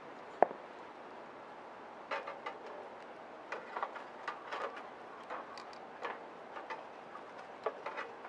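Wood fire crackling: one loud sharp pop about half a second in, then irregular snaps and crackles over a steady soft hiss.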